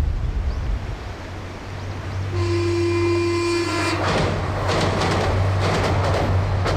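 A diesel train sounds its horn once, a steady single-note blast of about a second. It then rumbles and clatters across a steel girder bridge over its droning engine.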